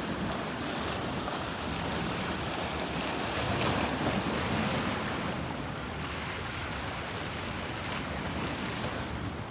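Sea waves washing against the shore, with wind on the microphone; the wash swells louder for a couple of seconds about three seconds in.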